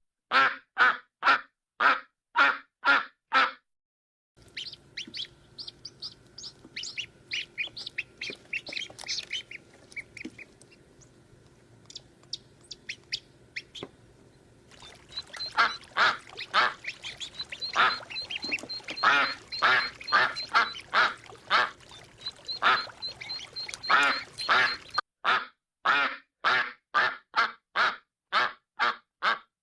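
Ducks quacking. At the start and again near the end comes a steady run of loud quacks, about two a second. In between, a group of ducks calls more thickly over a background hiss, some calls higher and thinner, before loud quacking returns.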